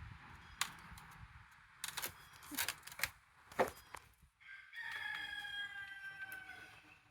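A rooster crowing once in one long call that sinks slowly in pitch, about two seconds long, after a few sharp clicks or taps.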